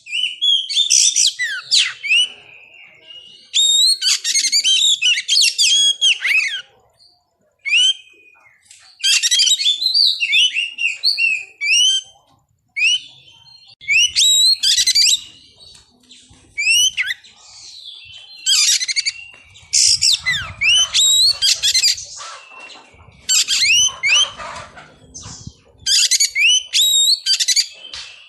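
Oriental magpie-robin (kacer) singing: loud phrases of varied, gliding whistles and rapid chattering notes, each a second or two long, with short pauses between.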